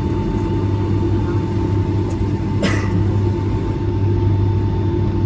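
Boeing 757-200 cabin noise while taxiing: a steady low rumble and hum from the idling engines and cabin air, with a thin steady tone running through it. One short noise about two and a half seconds in.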